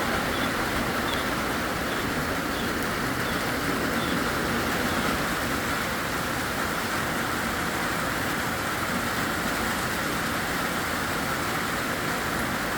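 Heavy downpour: a steady, unbroken hiss of rain falling hard.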